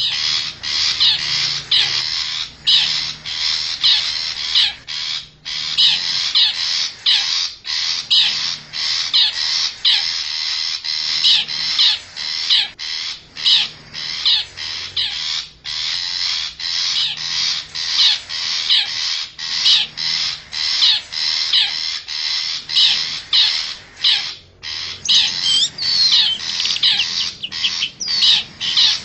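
Long-tailed shrike (cendet) giving harsh, scratchy, rapidly repeated calls and chatter, several notes a second with only brief breaks, played as a lure call to draw wild shrikes in.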